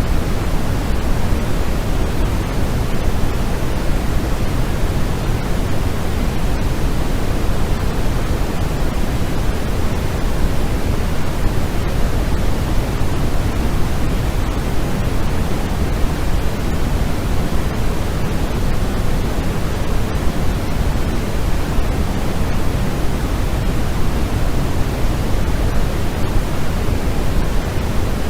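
Steady synthetic white-noise sleep sound: an even, unbroken rushing hiss, heavier in the bass than in the treble.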